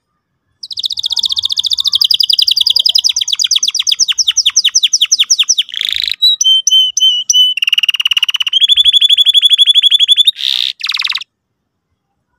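Domestic canary singing one long song: a fast rolling trill that slows, a few short separate whistled notes, then a second fast trill, stopping abruptly about 11 seconds in.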